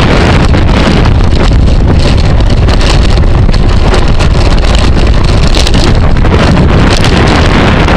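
Wind buffeting the microphone of a camera riding along in a bicycle race at speed: a loud, steady roar.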